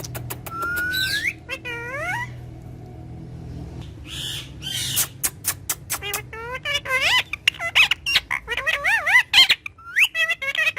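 Pet parrot vocalizing: a few sharp clicks and a rising whistle near the start, then, after a quieter stretch, fast warbling chatter with wavering pitch that fills the second half.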